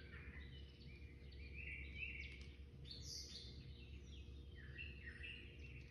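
Birds chirping faintly, many short high notes one after another, over a steady low hum.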